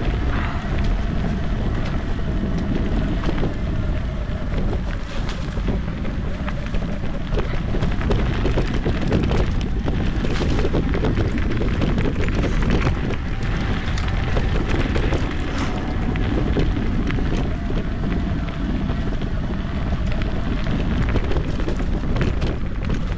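Mountain bike riding a dirt trail, heard from a helmet or chest camera: wind buffets the microphone, and the tyres and frame rattle with many small knocks over rough ground. A faint steady whine comes and goes.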